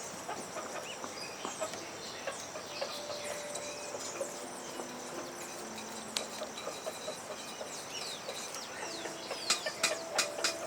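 Several birds chirping and calling together, with some longer held lower notes among the quick high chirps. Near the end a series of sharp clicking calls comes about three to four times a second.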